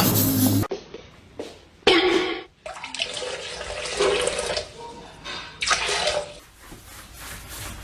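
Water splashing and running, in several short stretches that start and stop abruptly.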